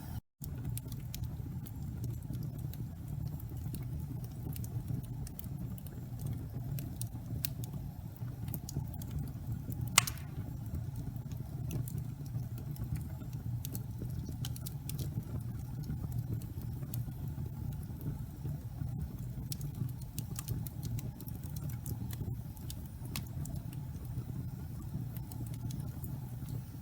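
Wood fire crackling in a fireplace: a low, steady rumble of flame with many small irregular crackles and one loud pop about ten seconds in. The sound cuts out for a split second near the start.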